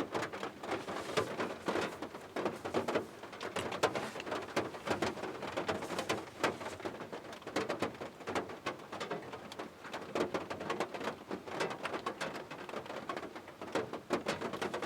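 Steady rain, with many separate drops landing close by as irregular ticks.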